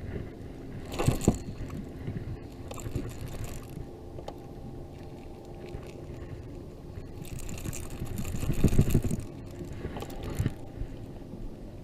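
Scraping and knocking on a kayak as a freshly landed largemouth bass is handled and unhooked, with two louder flurries about a second in and around eight to nine seconds.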